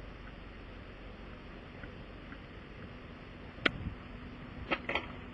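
A steady low rumble, with a few sharp clicks or knocks: one about two-thirds of the way in and a quick pair near the end.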